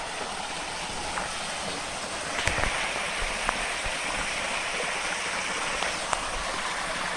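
Small waterfall and creek water rushing steadily, getting a little louder about two and a half seconds in, with a few light clicks.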